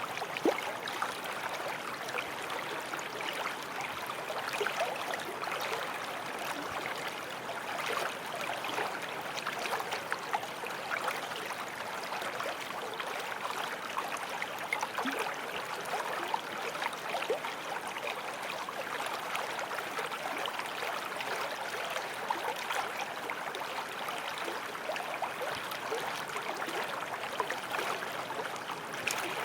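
A small forest stream running steadily over stones, an even babbling with small splashes and gurgles throughout.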